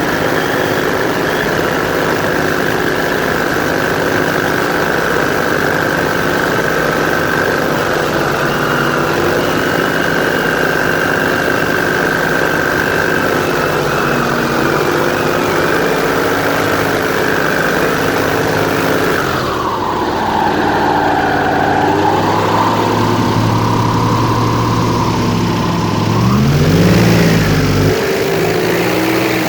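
Airboat engine and propeller running steadily under way. About two-thirds of the way through the engine note drops as the throttle eases, and near the end it revs up and back down briefly before settling.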